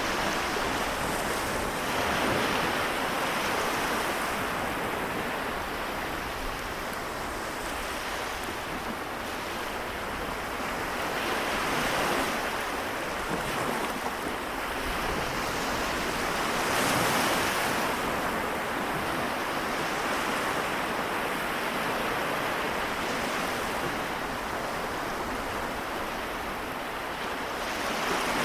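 Small waves of the Seto Inland Sea washing onto the shore, a steady wash that swells every few seconds as each wave breaks, with some wind on the microphone.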